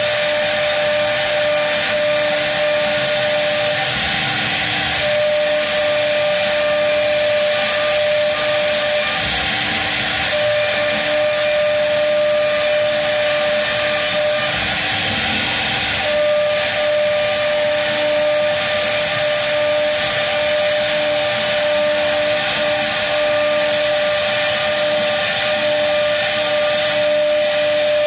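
CNC router spindle running and carving a door panel: a steady high whine over a constant hissing noise, the whine dropping away for a second or so three times as the cut changes.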